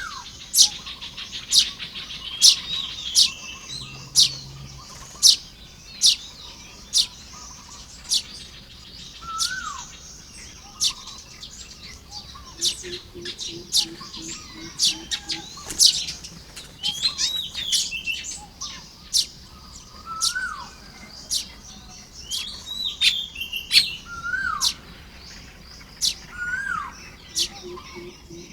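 Baya weavers calling while building nests: sharp high chirps about once a second, with short rising-and-falling whistled notes every few seconds. A low, rapidly pulsed call comes in about halfway through and again near the end.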